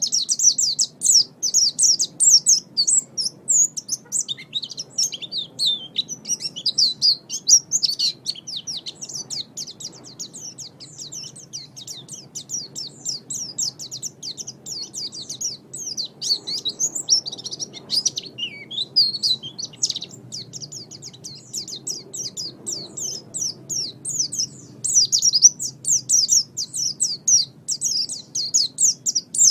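White-eye (pleci) singing a rapid, continuous high twittering song, louder near the start and again near the end, softer through the middle.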